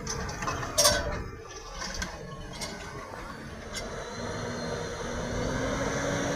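Tractor engine running with a steady rumble; a sharp knock sounds about a second in, and the engine's pitch rises slowly in the second half.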